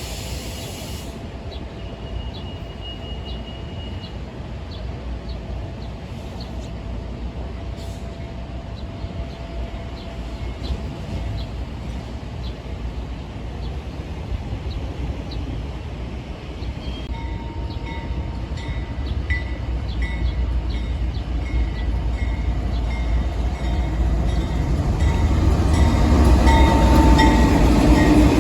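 Train rolling on the rails: a steady low rumble with wheels clicking regularly over rail joints. From about halfway in, thin wheel squeal joins, and the rumble grows louder near the end.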